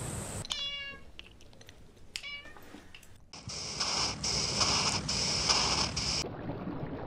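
Domestic cat meowing twice, two short high-pitched calls. After them comes a few seconds of loud pulsing hiss that cuts off suddenly.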